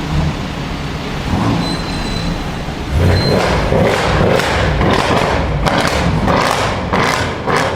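A car's loud exhaust rumbling, then, from a little under halfway in, a quick run of heavy thuds several times a second.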